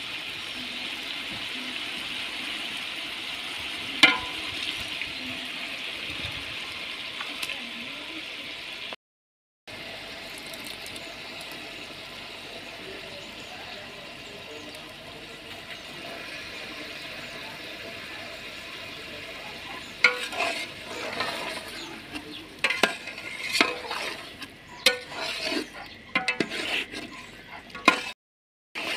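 Chicken pieces in oil sizzling steadily in a large metal cooking pot over a wood fire, with a single sharp clink about four seconds in. From about twenty seconds in, a long slotted metal spoon scrapes and clinks irregularly against the pot as the chicken is stirred.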